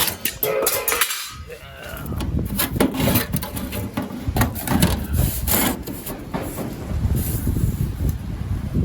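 Sheet-metal patch piece being handled and fitted against the car's body: scattered clicks, knocks and scraping of metal. Gusty wind buffets the microphone with a low rumble from about two seconds in.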